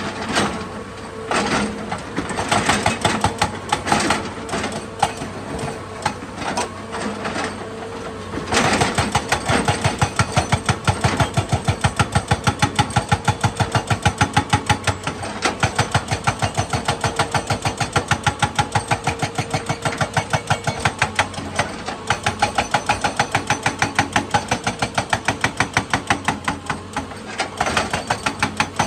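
Excavator's diesel engine and machinery running with a rapid, rhythmic clatter, uneven at first and settling into a fast, even beat about eight seconds in.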